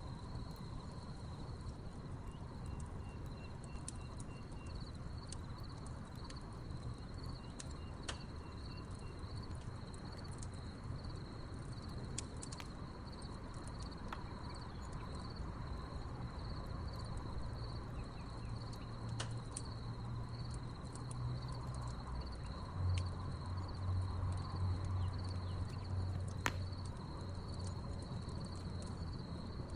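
Wood campfire crackling, with scattered sharp pops, over a steady pulsing chorus of chirping crickets. A low rumble swells in the second half.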